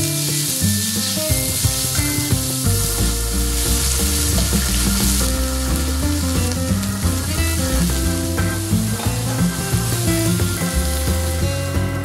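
Ground pork and chopped onion sizzling as they stir-fry in a frying pan, with a silicone spatula stirring and scraping through the mixture. Light background music plays underneath.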